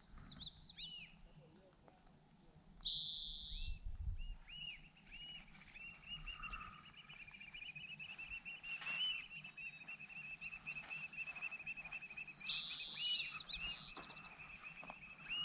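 Small birds singing: short arched whistled notes, a couple of brief buzzy notes, and from about five seconds in a long, even trill that carries on to the end.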